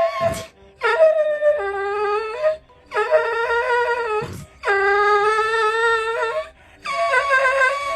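A dog howling in four long, drawn-out calls, each dropping in pitch partway through, with short breaks between them.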